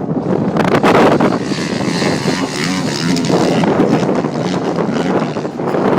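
Motocross bike engine running hard, its pitch rising and falling as the throttle is worked.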